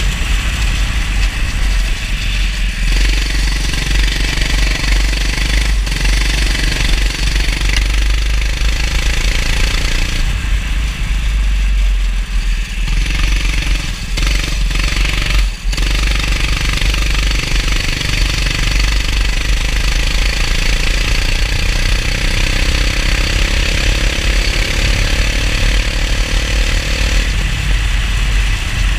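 Go-kart engine running on track, its note rising and falling several times with the throttle, under a steady hiss and low rumble.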